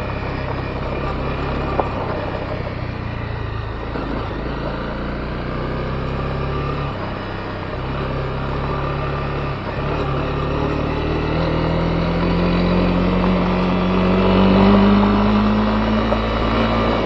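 Honda CB250R's single-cylinder four-stroke engine running under way on the motorcycle. Its note drops out briefly three times, then climbs steadily as it accelerates through the second half.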